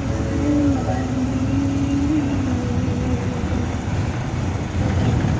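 Road and engine noise inside a moving tour van: a steady low rumble, with a wavering droning tone that fades out about three seconds in.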